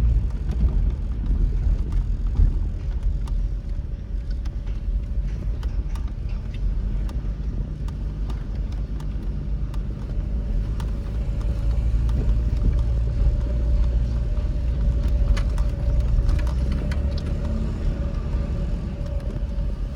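Road vehicle noise: a steady low rumble with scattered light clicks, and a thin steady tone that comes in about halfway.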